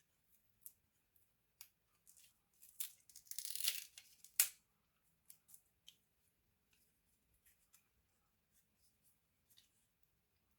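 Scattered light clicks and a brief rustling scrape about three to four seconds in, ending in a sharp click: small laptop parts being handled during a repair.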